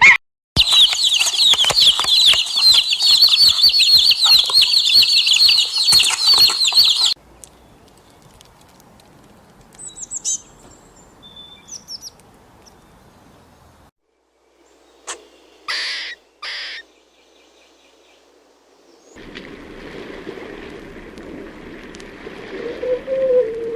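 Birds chirping in a dense, high-pitched chorus for about seven seconds, then falling much quieter, with a few short, separate calls later and a noisy stretch with a held tone near the end.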